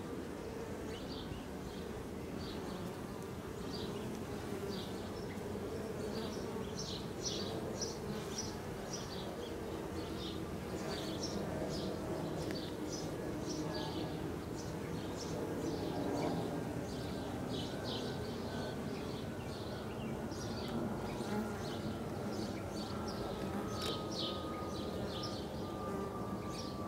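A honey bee swarm buzzing steadily around an opened nuc hive box, a constant low hum with high chirps over it.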